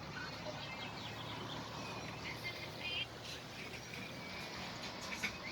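Steady outdoor background noise with small birds chirping faintly now and then.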